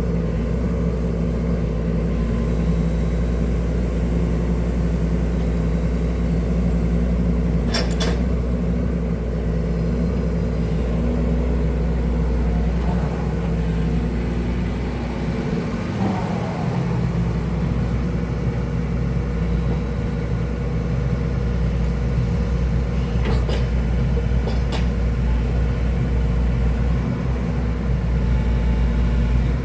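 Excavator's diesel engine running steadily, its note briefly changing about halfway through. A few short clicks sound over it.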